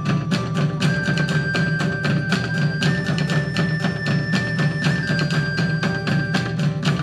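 Live band playing instrumental music: fast, even drumming under a high held melody line that steps up and then back down in pitch.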